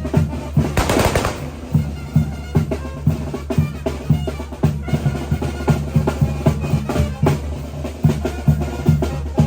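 Mexican village brass band (música de viento) playing, with a steady drum beat over a low bass line. About a second in there is one short, loud crackling burst.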